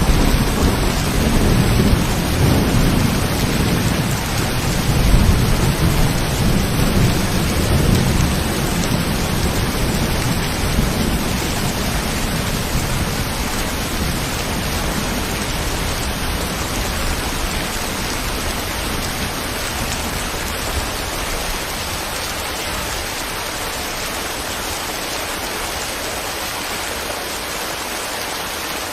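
Steady rain falling, with a long low rumble of thunder that slowly fades away over the first half, leaving only the even hiss of the rain.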